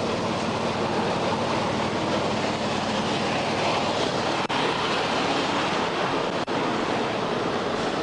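Steady rush of passing highway traffic at the roadside, a continuous wash of tyre and engine noise.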